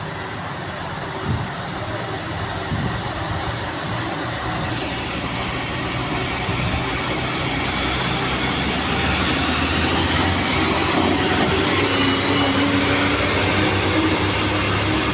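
A heavy vehicle's engine running with a low steady hum and rumbling noise that grows steadily louder.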